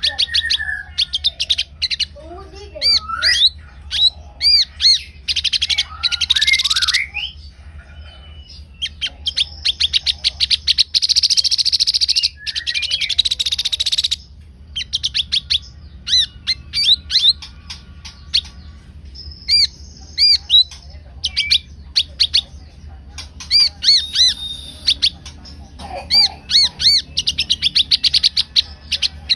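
A sogon bird, a cage songbird of Indonesian bird-keeping, calling: quick series of sharp chirping notes alternating with harsh, buzzy rasping calls. A steady low hum runs underneath.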